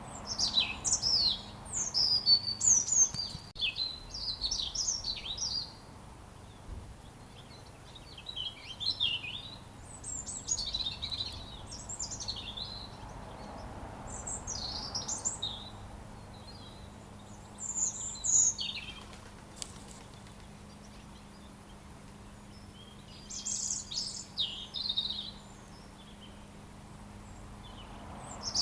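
A robin singing: phrases of rapid, high, thin sliding notes lasting a few seconds each, separated by short pauses, about five phrases in all.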